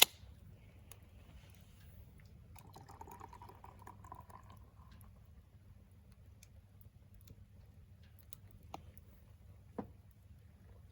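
Wood fire crackling in a secondary-combustion wood stove: faint scattered pops and ticks, a sharp snap at the start, a soft hiss for about two seconds, and two louder pops near the end.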